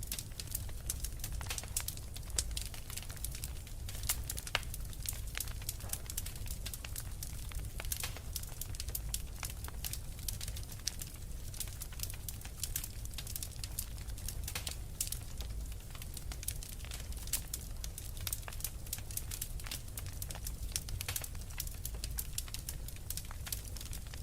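Wood fire crackling in a fireplace, with frequent sharp, irregular pops over a steady low rumble.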